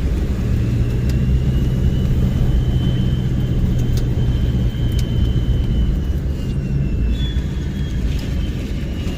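Diesel pickup truck's engine running steadily while driving, under a dense low rumble, with a faint high whine above it.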